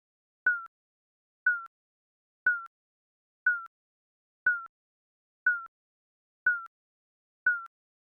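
Digital countdown-timer beep sounding once a second: eight short, identical beeps, each starting with a click and dipping slightly in pitch, with silence between them.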